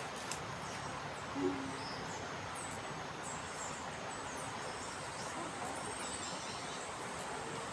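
Small birds chirping faintly in short, high, falling notes over a steady outdoor hiss, with one short low hoot about a second and a half in.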